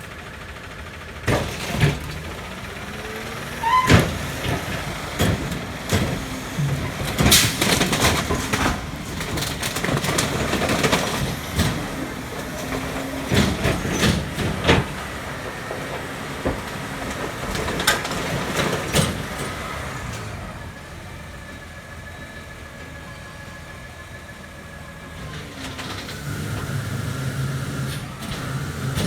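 McNeilus rear-loader garbage truck loading and crushing bulky waste: a run of loud bangs, cracks and knocks as items hit the hopper and break under the packer, over the diesel engine running. The knocks die away about two-thirds of the way through, leaving the engine and a steady hum, and near the end the engine runs louder.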